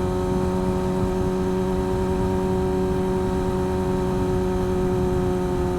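Motorcycle engine running at a steady, high speed, holding one even pitch, with a low rumble of wind on the microphone underneath.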